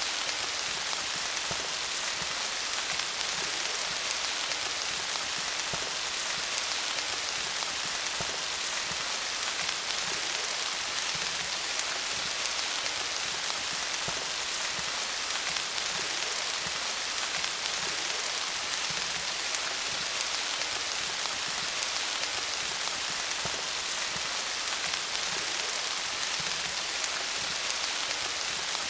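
Steady rain falling on leaves: an even hiss of many small drop patters, with no let-up.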